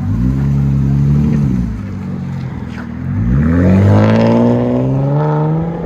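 Exhaust of a 2019 Ram 1500's 3.6-litre Pentastar V6, its muffler and resonator replaced by a Dynomax Race Bullet, revved twice: a blip held for about a second and a half, then a longer rev about three seconds in that peaks and eases back down. The tone is not raspy at all.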